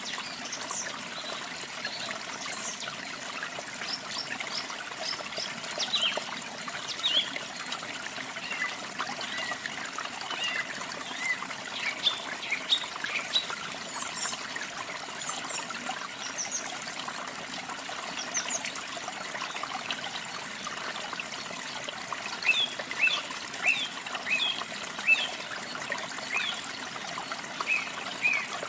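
Water trickling steadily, like a small stream, with songbirds chirping over it in short, high calls that come in bursts.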